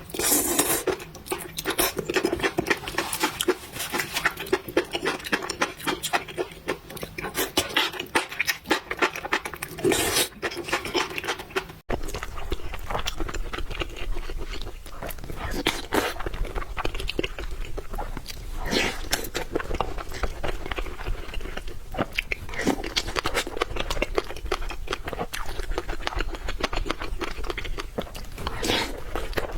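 Close-up chewing and mouth sounds of someone eating spicy noodles, made up of many small irregular clicks and crunches. About twelve seconds in the sound cuts abruptly, and a low steady hum sits beneath the chewing after that.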